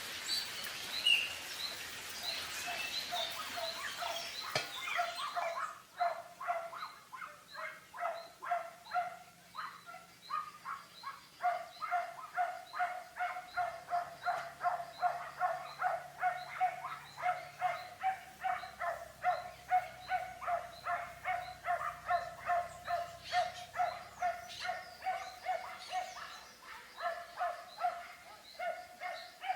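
An animal calls over and over, evenly, about twice a second, after a few seconds of outdoor background noise.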